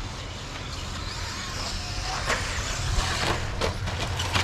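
Radio-controlled 2WD stadium trucks racing on a dirt track: a steady hum of running motors and tyres that slowly grows louder, with a few sharp knocks in the second half.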